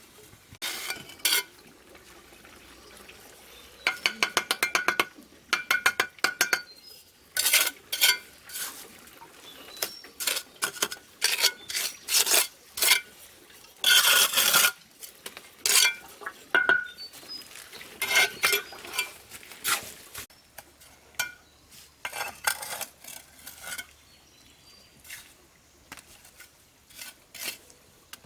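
Irregular strokes of a metal tool scraping and clinking against a hard surface, with a quick rattle of rapid taps about four seconds in.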